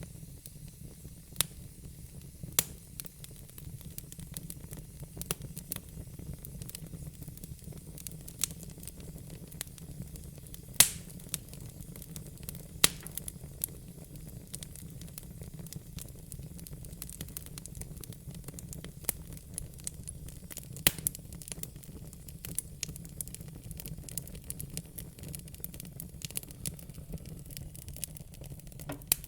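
Fire crackling: irregular sharp pops and snaps, a few much louder than the rest, over a steady low rumble and soft hiss.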